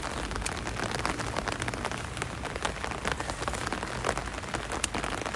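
Rain falling, a steady hiss with many separate drop taps.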